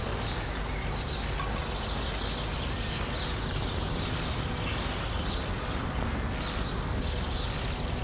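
Open-air ambience: a steady, even hiss with small birds chirping now and then.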